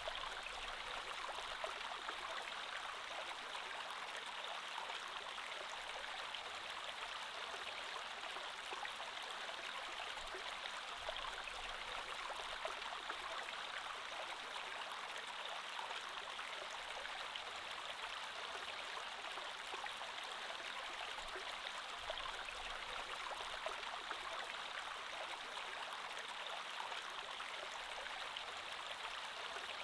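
Creek water flowing steadily over stones, a continuous babble with fine splashing and trickling.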